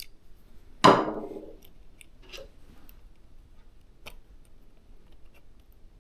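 A single sharp knock of hard parts striking, ringing briefly, then a few faint light clicks from small parts being handled.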